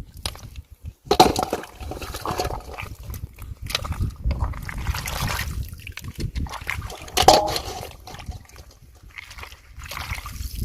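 Shallow floodwater in a rice field sloshing and splashing in irregular bursts, stirred by someone wading and reaching into it.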